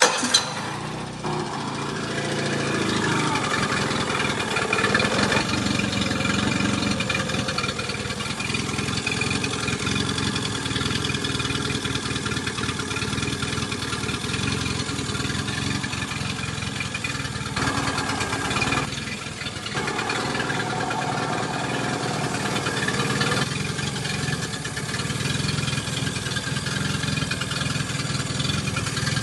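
Yamaha F25 four-stroke outboard motor coming to life suddenly and running, its speed rising and falling a few times, with a brief drop in level about two-thirds of the way through.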